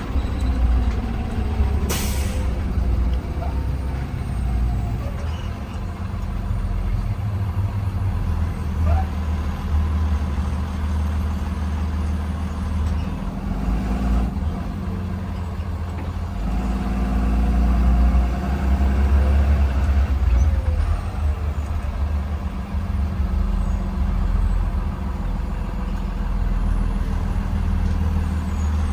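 Interior of a 2020 Blue Bird Vision school bus driving: the engine drones steadily and grows louder for a few seconds past the middle. About two seconds in comes a short, sharp burst of air from the air brakes.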